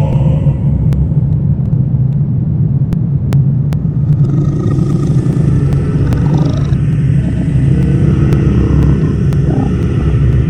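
Horror ambience soundscape: a loud, steady low rumbling drone, with faint scattered clicks and a few short wavering pitched sounds past the middle.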